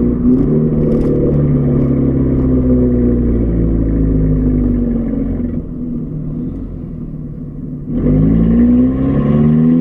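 Volkswagen Golf R Mk6's turbocharged 2-litre four-cylinder engine and exhaust while driving: the engine note falls slowly as the car eases off, drops quieter for a couple of seconds, then comes back loud with a rising pitch about eight seconds in as it accelerates.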